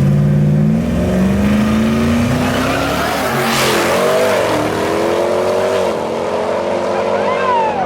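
Twin-turbo Ford F-150 and Dodge Durango SRT Hellcat racing at full throttle: engine pitch rises, drops at a gear change about three and a half seconds in as a loud rush passes, climbs again, then falls as they lift off. Voices shout near the end.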